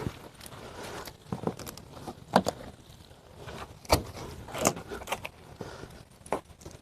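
Scattered knocks, rubs and footsteps of someone hand-washing a car with a soapy wash mitt, a dozen or so short irregular sounds with quiet between them.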